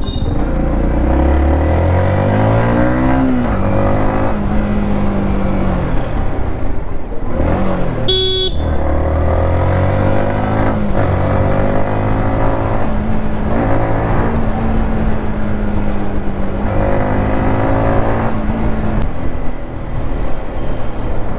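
Modified Yamaha MT-15's 155 cc single-cylinder engine pulling on the highway, revving up and dropping in pitch at each upshift, with wind noise throughout. About eight seconds in the revs drop low and climb again, and a horn sounds briefly.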